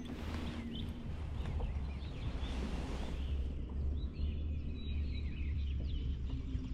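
Small birds chirping repeatedly over a steady low rumble of outdoor background noise, with a single sharp click at the very start.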